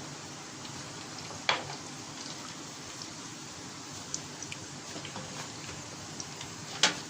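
Hot cooking oil sizzling steadily with scattered small crackles, as fritters fry. A sharp knock about a second and a half in and another near the end, like a utensil striking a pan or plate.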